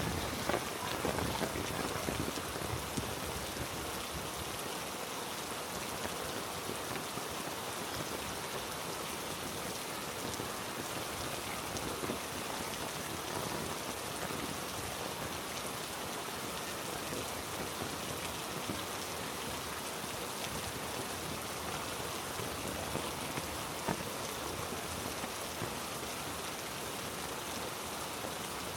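Heavy rain falling steadily on rainforest foliage: a dense, even hiss of countless drops, a little louder in the first second or two.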